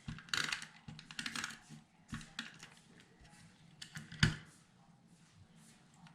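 Paper die cuts and embellishments being handled on a tabletop: short bursts of crisp paper rustling and clicking, then a sharp tap about four seconds in.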